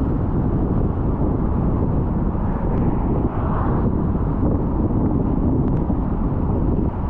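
Car on the move: a steady low rumble of road and wind noise, with a couple of faint ticks.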